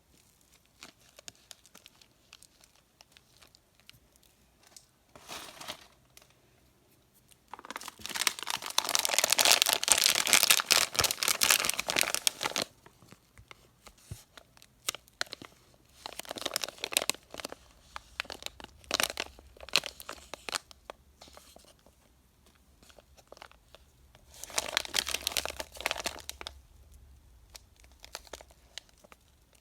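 Candy wrappers being torn open and crinkled by hand: faint scattered crinkles, a long loud stretch of tearing and crackling about a quarter of the way in, then several shorter bursts of crinkling.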